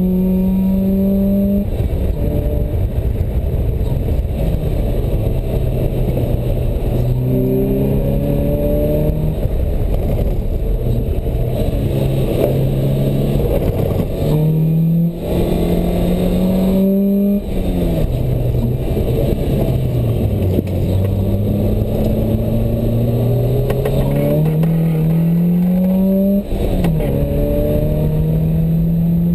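Open-top sports car's engine pulling hard around a track, its revs climbing again and again and dropping back at each gear change or lift. Heavy wind and road noise come through the open cockpit, with brief dips about fifteen, seventeen and twenty-six seconds in.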